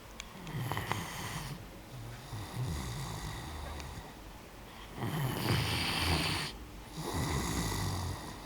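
A Great Dane snoring in its sleep: four slow breaths, each a low rumbling snore, with short pauses between them.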